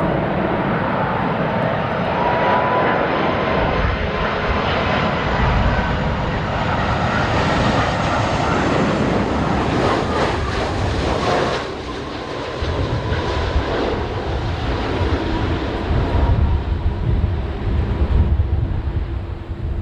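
Jet airliner on landing approach passing close, its engines making a loud steady roar with a high whine in it, which falls away about halfway through. Strong gusty wind then buffets the microphone with a low rumble.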